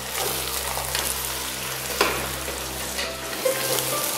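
Chopped herbs and lamb sizzling as they fry in oil in a metal pot, stirred with a metal ladle. A few sharp knocks and scrapes of the ladle against the pot come through, the loudest about two seconds in.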